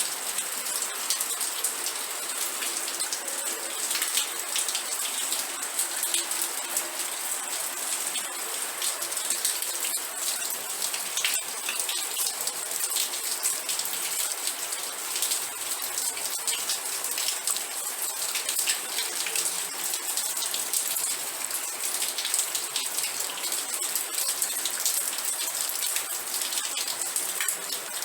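Steady rain, with many individual drops heard striking close by.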